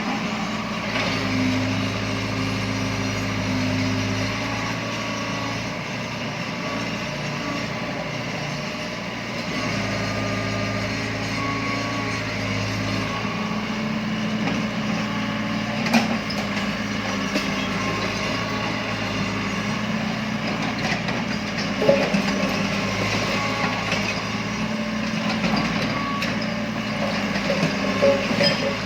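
Excavator's diesel engine running, its note swelling and easing as it works, with a few sharp knocks, the loudest about two thirds of the way through.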